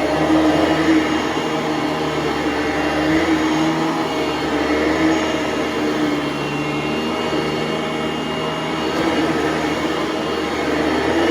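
Bissell ProLite bagged vacuum cleaner running loud and steady. Its motor hum wavers slightly in pitch as the load changes.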